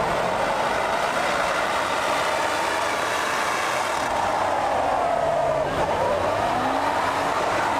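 Car engine running, its pitch slowly falling and rising again.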